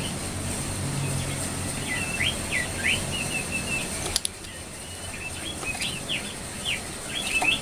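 Jongkangan coklat songbird calling: two quick bursts of short, sharp chirping notes that sweep in pitch, with a brief click between them.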